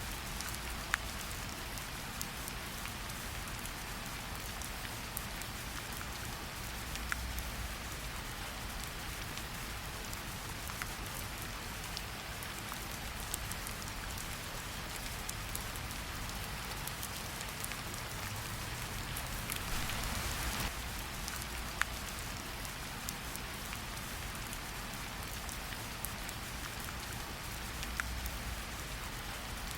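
Steady rain falling in a forest, with single drops ticking sharply here and there. The rain grows briefly louder about two-thirds of the way through.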